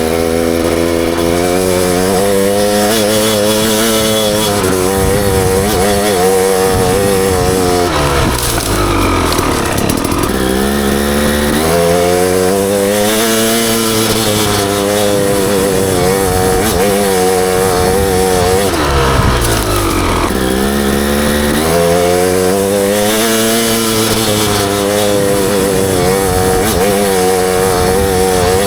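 Husaberg TE300 two-stroke dirt bike engine being ridden, its revs rising and falling, dropping away twice (about eight and nineteen seconds in) and climbing back up.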